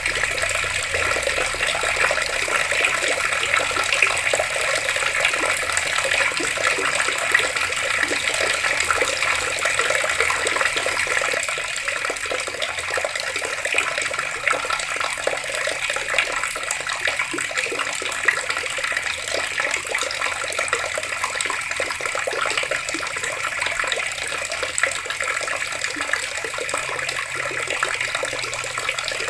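Water running steadily from taps.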